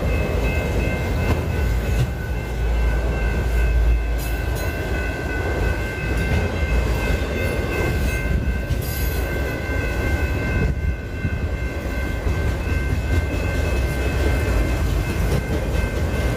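Freight train of autorack cars rolling steadily past a grade crossing: a continuous low rumble with wheel clatter and a few sharp clicks, under a steady high ringing.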